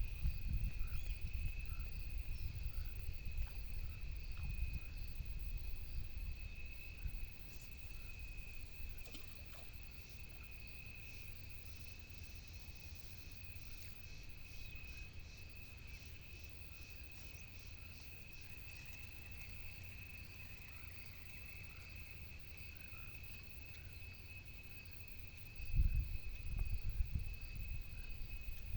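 Insects chirring steadily in one high, unbroken tone, with a faint fast pulsing call above it for a while in the middle. A low rumble sits under it in the first several seconds and comes back near the end.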